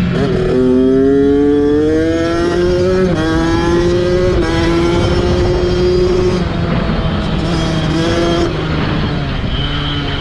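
Kawasaki dirt bike engine under way, its pitch rising as it accelerates over the first three seconds, then jumping and holding steady, with another short stretch of rising revs near the end.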